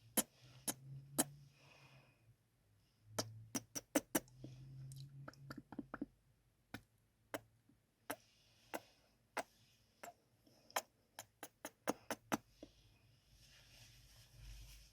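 Close-miked ASMR kissing sounds: a string of sharp, soft lip smacks at an irregular pace, some in quick clusters, with faint hiss between them.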